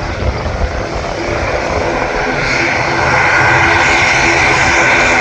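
Airliner engines running and growing louder as the aircraft draws closer, the roar building about two seconds in and then holding steady.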